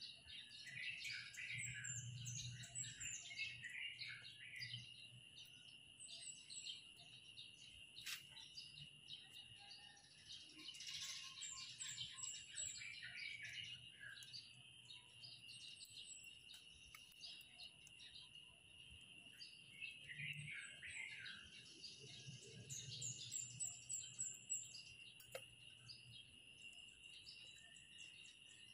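Faint birds chirping in short bursts of quick, falling notes, over a steady high-pitched whine.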